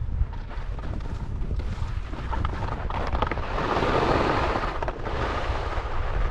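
Strong wind buffeting the microphone as a steady low rumble, with a louder rushing swell about halfway through.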